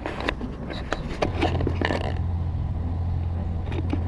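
A cut-down container being handled and fitted under the oil filter: a few sharp clicks and scrapes. About a second in, a steady low hum sets in and holds.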